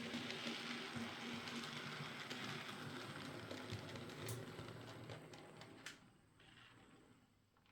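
Hornby OO gauge Britannia Class model locomotive running on the track: a faint motor whirr with small ticks from the wheels, fading out about six seconds in. It runs again after its split double gear was replaced.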